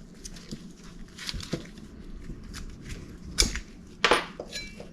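Small metal parts of a dirt bike's rear brake caliper being handled: light clicks and clinks, with two sharper knocks about three and a half and four seconds in, the second leaving a brief metallic ring.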